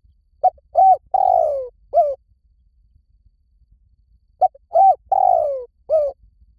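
Spotted dove cooing: two phrases about four seconds apart, each of two short coos, a longer falling coo and a short closing coo.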